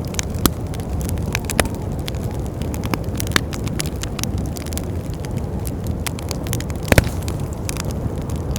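Wood fire crackling and popping over a steady low rumble of wind, with one louder pop about seven seconds in.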